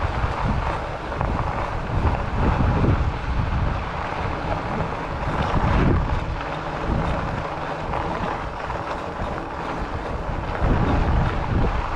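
Wind buffeting a chest-mounted action camera's microphone while riding an e-bike, an uneven low rumble that swells and dips.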